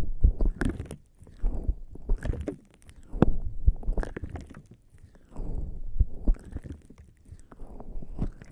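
Bare skin slick with lubricant jelly rubbing and pressing against an ear-shaped binaural microphone, in slow repeated strokes about one to two seconds apart. Each stroke comes as a swell of dull rubbing mixed with small sticky clicks.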